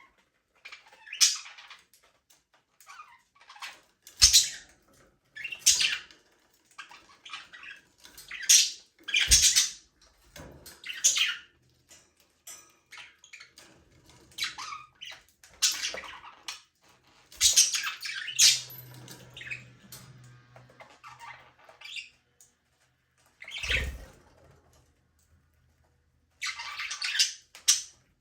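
A group of budgerigars chirping and squawking in irregular short bursts of chatter, with a few dull low thumps among the calls.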